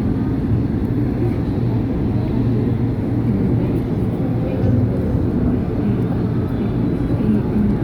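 Steady rumble of an LRT Line 2 electric light-rail train running between stations, heard from inside the passenger car.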